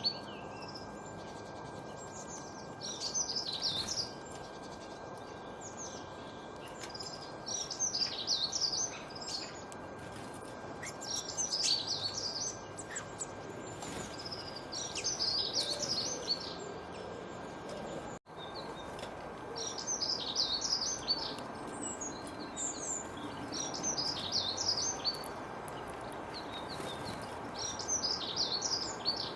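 Songbirds singing in short, rapid bursts of high chirps, repeated every couple of seconds, over a steady background hiss. About 18 seconds in, the sound cuts out for an instant.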